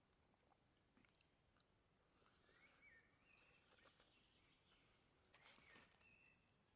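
Near silence: faint outdoor ambience with two soft brief rustling or chewing-like noises, about two seconds in and again past five seconds, and faint high bird chirps.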